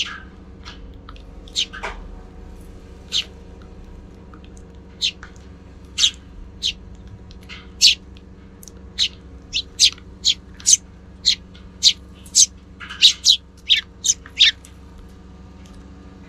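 Eurasian tree sparrows chirping: short, separate high chirps, scattered at first, then coming quickly, about two a second, for several seconds past the middle, over a faint steady low hum.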